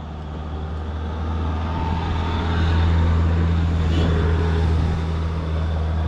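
A motor vehicle's engine running nearby with a steady low hum, growing louder over the first few seconds and then holding.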